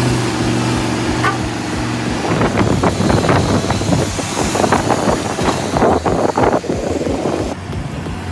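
Heavy vehicle's diesel engine running steadily. About two seconds in, a rougher, uneven mechanical rumble takes over for some five seconds, then drops away shortly before the end.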